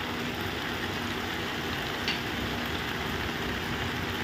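Diced potatoes and fenugreek leaves sizzling steadily in a frying pan, with a faint steady hum underneath and one light tick about two seconds in.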